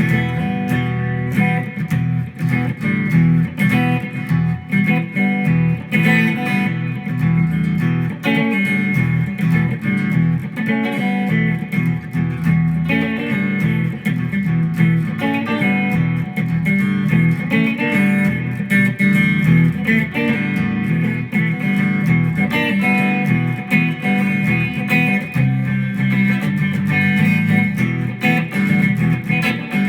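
Electric guitar being played: a continuous stream of plucked notes with no pauses.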